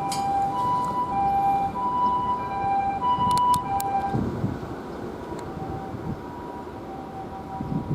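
Japanese ambulance siren sounding its two-tone hi-lo call, a high note and a low note alternating about every half second. It is loud for the first half, then grows fainter as the vehicle moves away.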